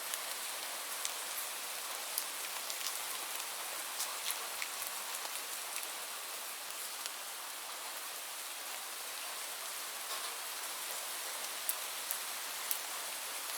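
Steady rainfall: an even hiss of rain with scattered sharp drips and drop ticks falling on a surface.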